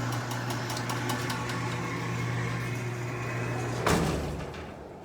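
Electric garage door opener running as the overhead door comes down, a steady motor hum with chain rattle, ending in one loud thud about four seconds in as the door reaches the floor and the motor stops.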